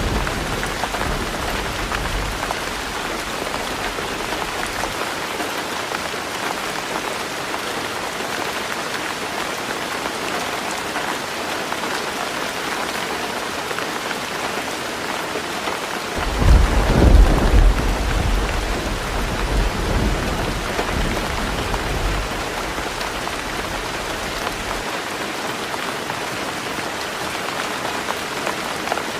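Heavy rain drumming steadily on a tin roof. About halfway through, a low rumble of thunder swells, peaks for a few seconds and fades away.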